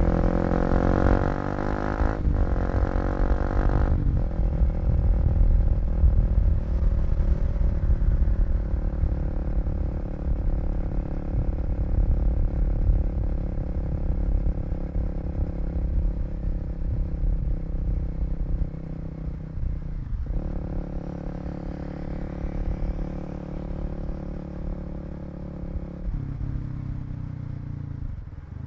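Kawasaki KLX250 single-cylinder four-stroke engine revving up through the gears, with quick shifts about two and four seconds in, then cruising at steady revs before easing off to lower revs near the end. A steady low rumble of wind and road noise runs under it.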